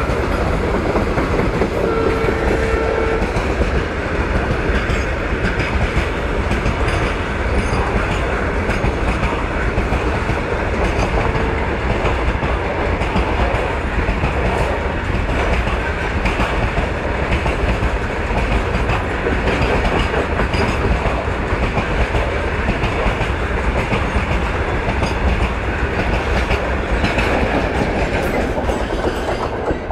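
A long freight train of covered goods wagons rolling past close by, a steady dense rumble of wheels running over the rail joints, with the brake van at the tail passing near the end.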